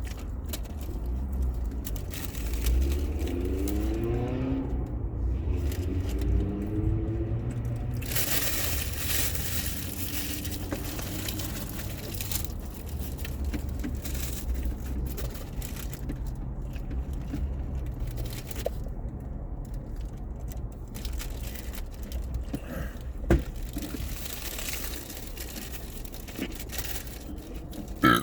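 Wrappers crinkling and rustling while food is handled and chewed, with a few sharp clicks, over a steady low rumble.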